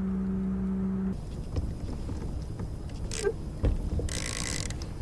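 A kayak's electric trolling motor humming steadily, then cutting off about a second in. Light mechanical clicks and knocks of gear being handled follow, with two short rustles.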